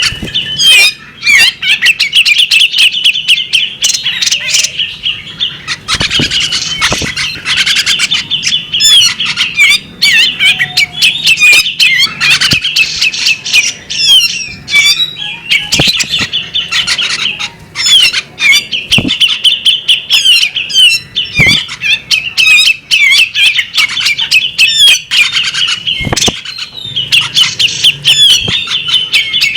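Female magpie robin singing a loud, continuous, rapid chattering song of quick notes, broken by short pauses and sprinkled with sharp clicks.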